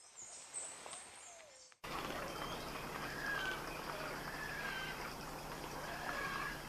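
Wild birds calling: high chirps and a short falling whistle, then, after a sudden cut about two seconds in, a bird giving a clear whistled note about every one and a half seconds over a steady low hum.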